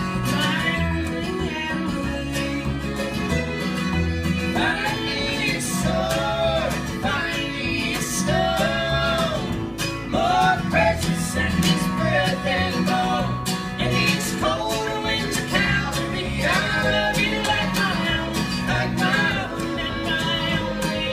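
Acoustic string band playing a bluegrass-style tune live, with guitar and bass under a melody line that bends and slides in pitch.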